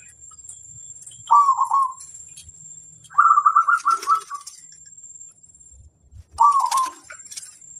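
Zebra dove (perkutut) cooing: three phrases of quick rolling notes, a short one, then a longer run of rapid notes, then another short one.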